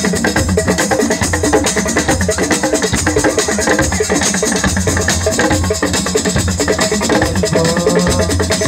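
Assiko band music: drums and percussion playing a dense, steady beat, with a short melodic line coming in near the end.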